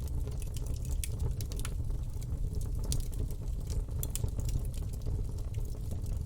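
Campfire burning: a steady low rumble under frequent, irregular crackles and pops.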